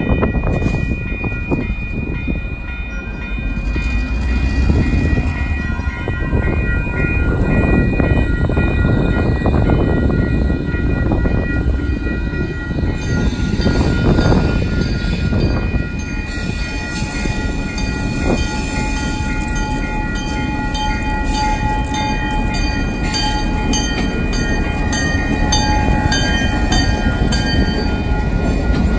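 Train noise: an ION light rail vehicle passes close about halfway through, then a CN diesel freight locomotive runs past near the end, its wheels clicking regularly over the track. Underneath, there is a heavy low rumble and a level-crossing bell ringing steadily.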